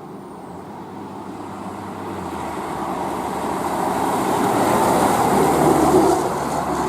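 A heavy fire engine, a 2012 HME Ahrens-Fox pumper, approaching on the road; its engine and tyre noise grows steadily louder to a peak about six seconds in.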